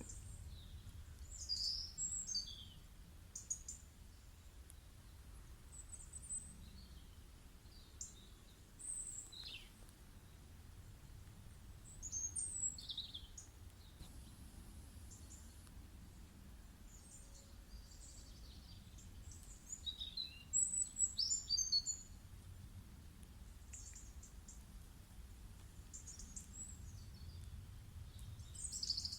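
Birds chirping and trilling in short high bursts every few seconds, the busiest spell about two-thirds of the way in, over a faint low rumble.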